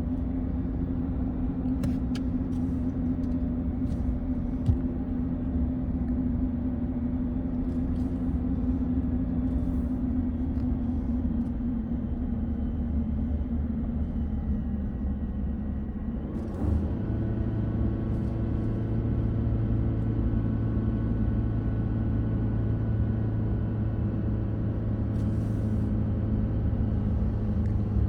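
Car engine and road rumble while driving down a mountain road, with a few faint clicks and one sharp knock about five seconds in. About sixteen seconds in, the engine note changes to a steadier, deeper hum that holds to the end.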